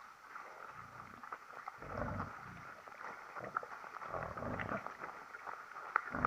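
An animal making strange low noises, several in a row, each about half a second long, over a faint steady crackling.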